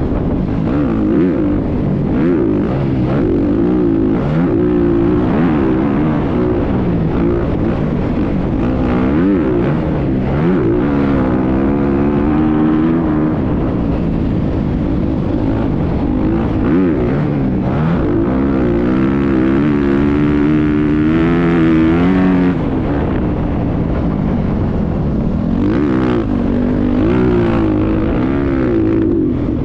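Motocross bike engine running under load, its pitch rising and falling again and again as the throttle is worked, over a constant low rumble.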